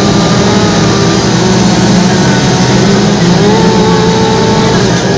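Two-stroke chainsaws running, loud and continuous, as they cut wood in a quick-carving contest.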